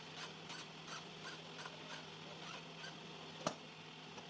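Faint light clicks and taps, about two to three a second, with one sharp click about three and a half seconds in, over a steady low hum.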